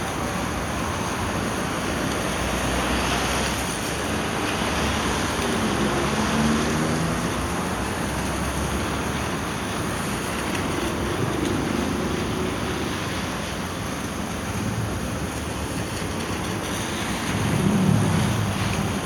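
Steady hiss of road traffic in the rain: tyres on wet pavement with the engines of passing vehicles, one growing louder near the end.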